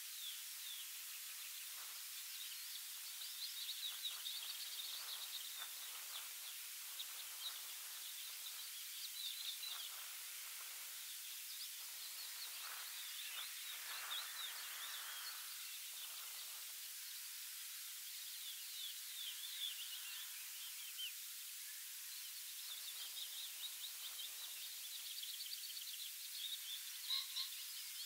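Songbirds singing: quick high chirps and trills that come and go and overlap throughout, over a steady soft hiss.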